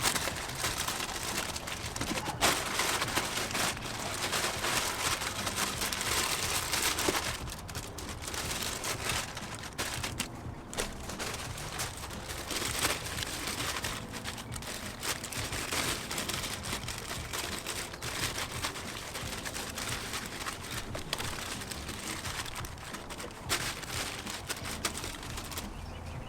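Plastic trash bags crinkling and rustling as they are handled, with many small crackles.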